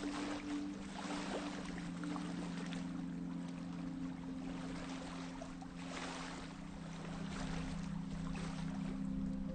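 Waves washing over a pebble beach, the surges swelling and easing every couple of seconds with a scattering of stone clatter. A steady low hum of held tones runs underneath.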